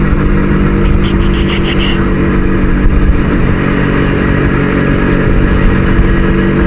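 Motorcycle ride with the Kawasaki H2 Mach IV's two-stroke triple running at a steady, eased-off speed, over wind rumble on the microphone. A brief rattle comes about a second in.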